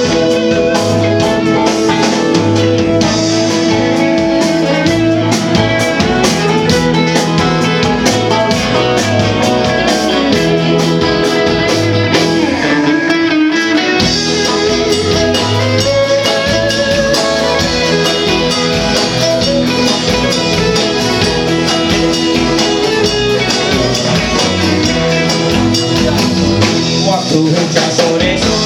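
A band playing an instrumental passage of the song, led by guitar over a steady beat.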